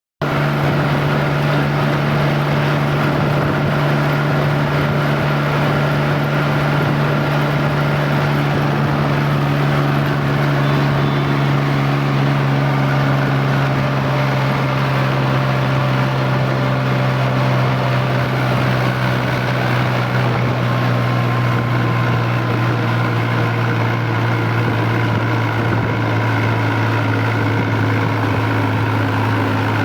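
Swaraj 735 tractor's diesel engine running steadily at road speed, its pitch sinking slowly and slightly.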